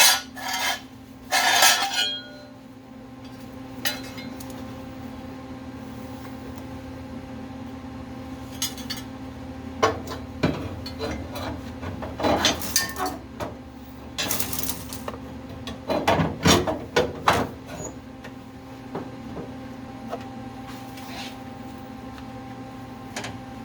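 Metal clinks and clatter, as of steel parts and tools being handled and set down, coming in scattered bursts and thickest about halfway through, over a steady electrical hum.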